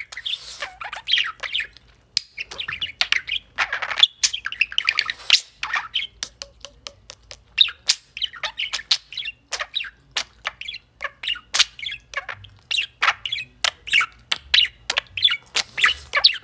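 A pet yellow bird chirping and squawking over and over, mixed with noodle slurping and sharp, wet mouth clicks from chewing.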